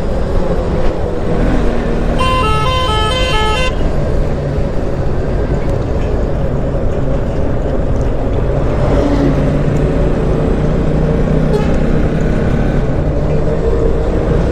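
Steady motorcycle riding noise on a highway, engine and wind. About two seconds in, a vehicle horn sounds for about a second and a half, its tones switching back and forth quickly.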